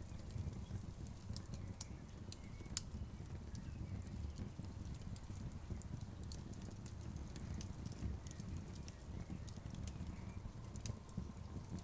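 Wood fire crackling, with sharp irregular pops and snaps of burning logs over a steady low rumble.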